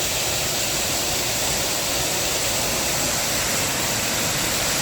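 Artificial waterfall pouring steadily from a concrete pool into a pool below, a constant rushing of falling water.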